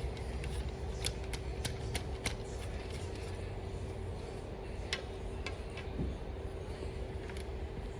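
Light, scattered clicks and taps, a quick run of them in the first couple of seconds and then a few single ones, over a steady low hum.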